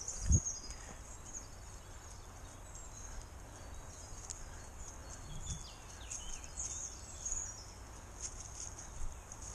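Songbirds chirping and trilling, many short high calls throughout, over a steady low rumble, with a single thump just after the start.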